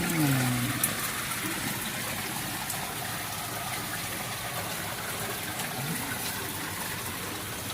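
Steady rush of flowing water. A short falling vocal sound, like a brief murmur, is heard right at the start.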